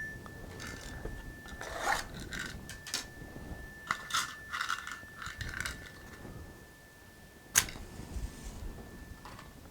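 A struck chime's clear, steady tone rings on and dies away about seven and a half seconds in. Over it come clusters of small clicks and scrapes of hand handling, then one sharp click, the loudest sound.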